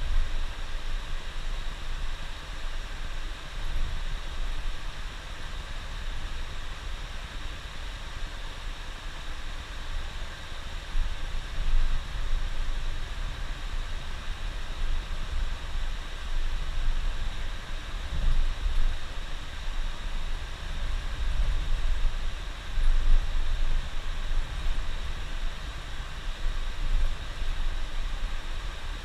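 Steady low rumble of a coach bus under way, its engine and tyres heard together from inside the cab, under an even hiss.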